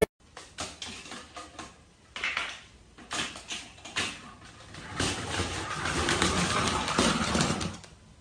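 A pet parrot making low coo-like calls, with scattered clicks, growing louder and continuous over the last few seconds.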